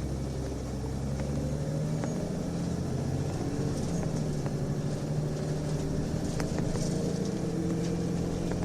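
Nissan Diesel UA bus diesel engine pulling under acceleration, heard inside the cabin, its note climbing in pitch with a shift in the note about four seconds in. This unit sounds abnormal to the recordist: it holds high revs before each upshift of its ZF four-speed automatic, something the recordist says often goes with torque-converter slip on such buses.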